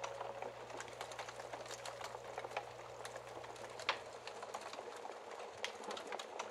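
Wood fire crackling: irregular sharp pops and snaps over a soft hiss. The tail of a held musical note fades out in the first half second.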